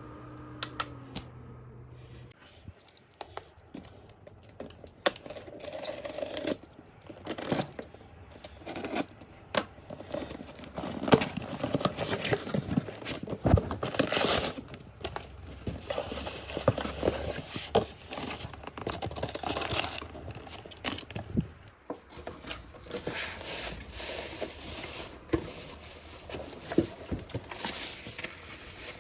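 Hands handling crinkly packaging: irregular crinkling, tearing and rustling with sharp clicks and knocks. A faint steady hum dips in pitch and stops about two seconds in.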